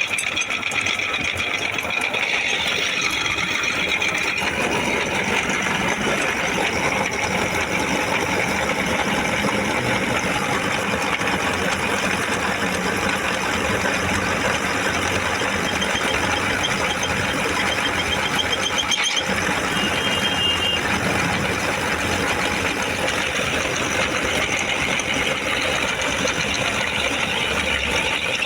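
A machine running steadily, with a dense, even mechanical whir and rattle that does not let up.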